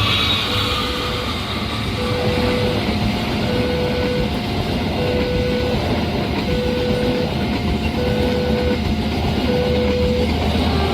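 A train passing over a level crossing with a steady rumble, while the crossing's electronic warning signal repeats a short two-tone alert about every one and a half seconds.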